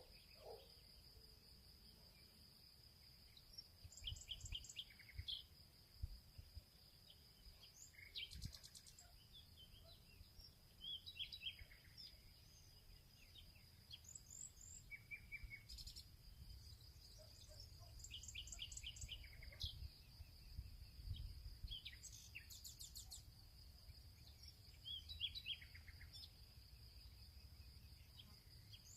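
Field ambience: several small birds chirping and singing in short repeated phrases and trills, over a steady high-pitched insect drone such as crickets. A soft, uneven low rumble sits underneath.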